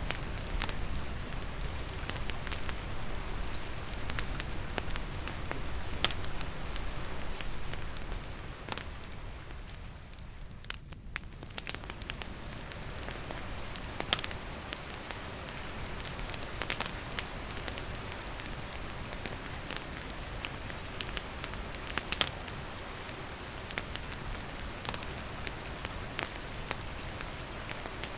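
Steady rain falling, mixed with a wood campfire crackling, with sharp pops scattered irregularly throughout. The rain hiss eases for a few seconds around ten seconds in, while the crackling carries on.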